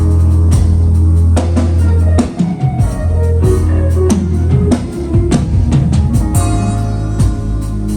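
Band playing instrumental music: drum kit with kick and snare hits over a held bass line, with guitar.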